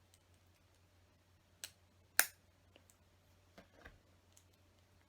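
LEGO pieces being handled and pressed together: a few sharp plastic clicks, the loudest about two seconds in.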